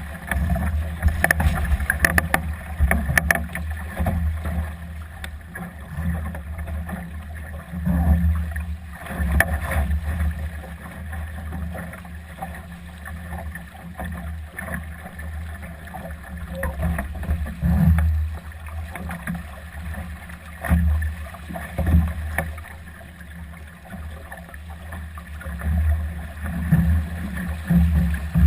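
Gusty wind buffeting the microphone aboard a Solo sailing dinghy, a low rumble that surges and fades every few seconds, with water rushing along the hull and scattered sharp clicks and knocks from the boat.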